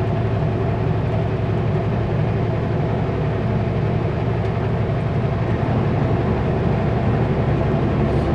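Kenworth W900L semi truck's diesel engine running at a steady pitch while under way, over a steady road noise.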